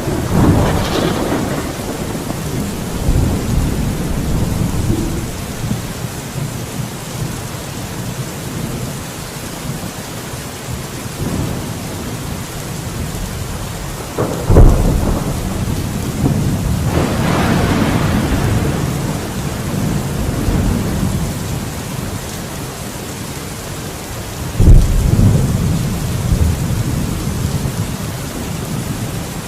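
Thunderstorm: steady heavy rain with rolling thunder rumbling low throughout. Sharp thunderclaps crack about halfway through and again near the end, with a long rolling peal between them.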